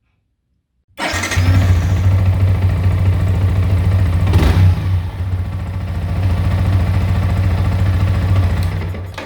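Yamaha R15 V3 single-cylinder motorcycle engine running loud through a Daytona Evolution aftermarket exhaust. It comes in suddenly about a second in, has a brief sharp burst about halfway through, and cuts off near the end.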